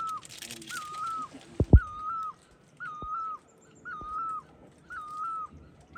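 A bird's whistled call repeating about once a second, each note a short rising then level whistle. A sharp low thump comes just under two seconds in, with fainter knocks later.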